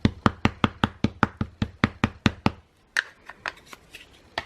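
A Distress ink pad tapped rapidly against a rubber stamp to ink it, about five taps a second, stopping about two and a half seconds in. A few lighter scattered clicks and knocks follow.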